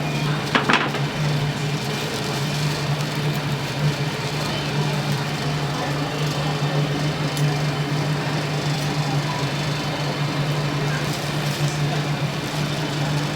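A steady low machine hum over a constant background noise, with a brief clatter about half a second in.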